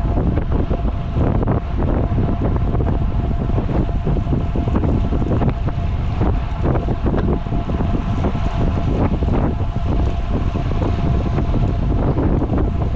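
Wind buffeting the microphone of a camera on a moving road bicycle: a loud, steady low rumble with a faint steady hum running through it.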